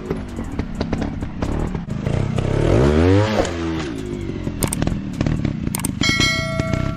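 Motorcycle engine revving up and falling back about three seconds in, over a clattering background. A bell-like chime of several steady tones starts near the end.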